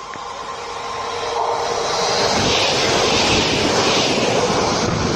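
Train passing through a station at speed: its rushing rumble grows over the first two seconds and then holds loud, with the fading tail of its horn note in the first second or two.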